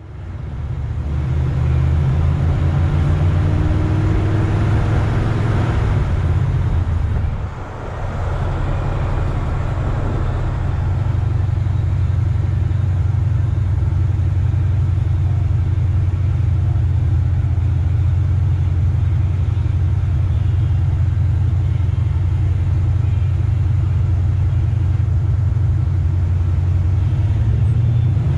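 Chevrolet Nova's engine running under way, a steady low engine note whose pitch rises a few seconds in as it pulls ahead. The level dips briefly about seven and a half seconds in, then the note holds steady.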